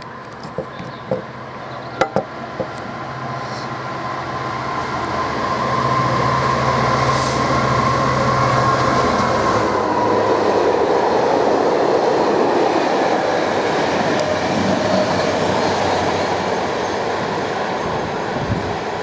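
Freight train passing at speed. A few sharp clicks come in the first two and a half seconds, then the train's rumble builds and holds steady, easing slightly near the end.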